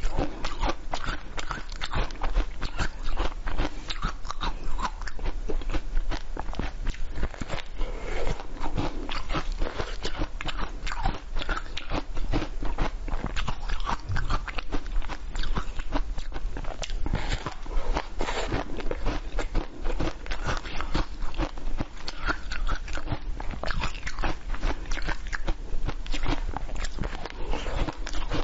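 Close-miked crunching and chewing of a watermelon-slice-shaped dessert with a crisp shell, with many small irregular crackles and bites throughout.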